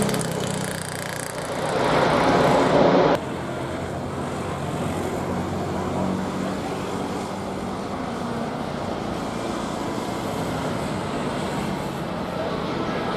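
Jet airliner engine noise, loud and swelling for the first three seconds, then cutting off abruptly to a quieter, steady rumble.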